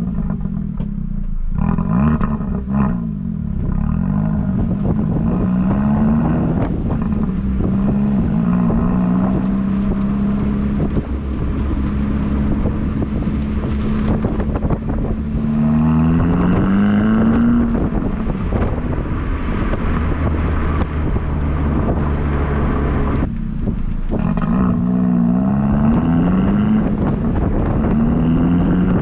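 Exhaust of a Hyundai Elantra Sport's 1.6-litre turbocharged four-cylinder, its intercooler resonator replaced by a straight-through pipe, under repeated hard acceleration. The engine note climbs through the revs and drops back at each upshift, several times over.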